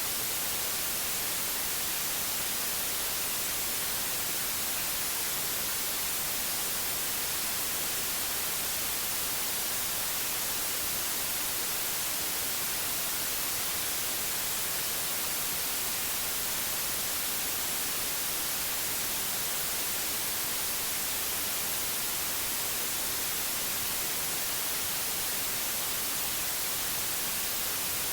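Steady white noise: an even, unchanging hiss that is brightest in the high frequencies.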